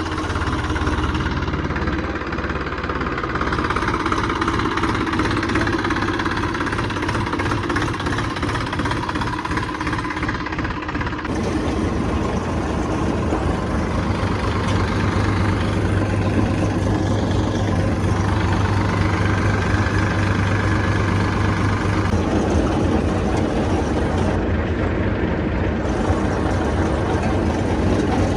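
Farm tractor's diesel engine running steadily, its note shifting about 11 seconds in and again about 22 seconds in.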